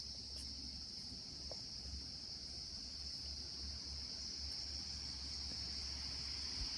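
Steady, high-pitched chorus of insects with a faint low rumble underneath.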